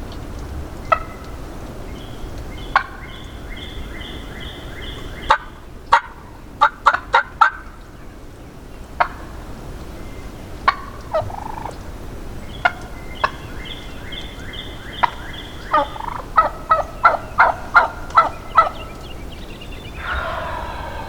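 Wild turkey gobbling and calling: several runs of quick, sharp notes, and a longer rattling gobble near the end.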